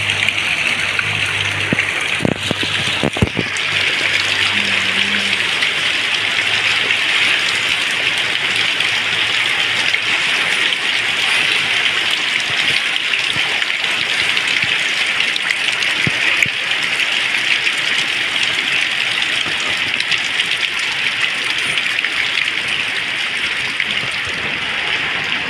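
Heavy rain with rainwater gushing and splashing steadily from a roof spout, with a few sharp knocks about two to three seconds in.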